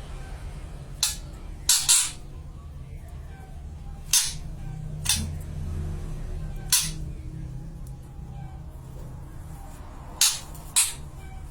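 Sharp, short clicks or snaps, about seven at uneven intervals, over a steady low hum.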